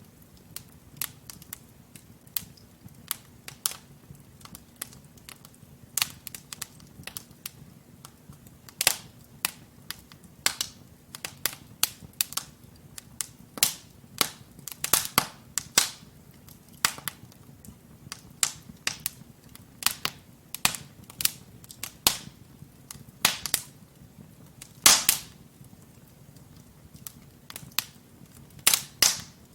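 Wood fire burning in a fireplace: logs crackling with frequent irregular sharp pops and snaps over a faint low rumble of the flames.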